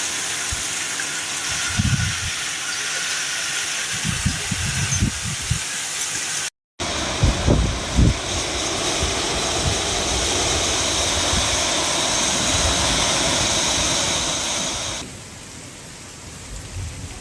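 Storm noise: a dense, steady hiss of heavy rain, broken by several low thumps. It cuts briefly about six and a half seconds in and drops clearly quieter a couple of seconds before the end.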